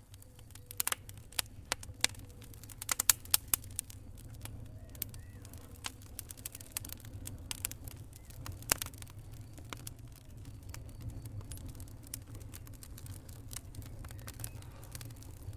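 Wood fire crackling with irregular sharp pops, a cluster of louder ones about three seconds in, over a low steady rumble.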